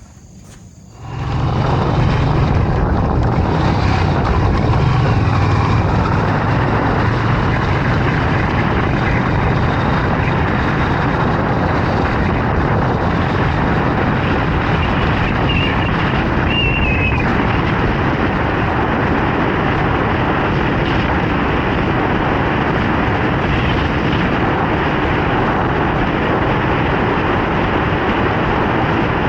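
Triumph Bonneville America motorcycle on the move: wind rushing over the microphone with the engine running underneath, a steady loud noise that starts about a second in.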